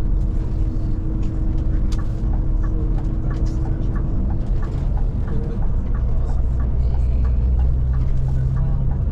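Scania Touring coach's diesel engine and road rumble heard from inside the cab while driving, the low engine note growing stronger about six seconds in. A light, regular ticking, a little over two a second, runs underneath.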